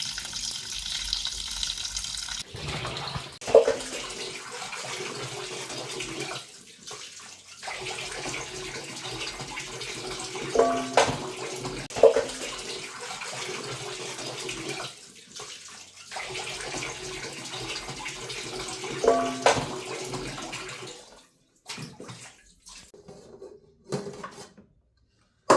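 Water running steadily from a kitchen tap, stopping briefly twice and shutting off near the end, with a few knocks and clinks of items being handled in the sink.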